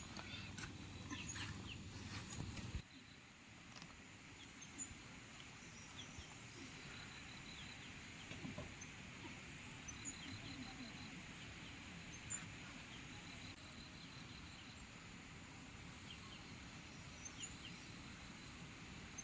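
Faint outdoor bird calls, short high chirps and quick chattering runs, over a steady hiss, with a few clicks and knocks in the first few seconds.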